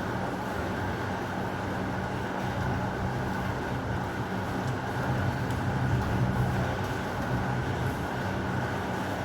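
Steady heavy rain, with a low roll of distant thunder swelling in the middle and fading again.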